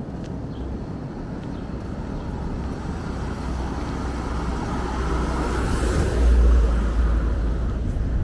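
A car driving past on the street, its tyre and engine noise growing louder as it approaches and peaking about six seconds in, with a low rumble.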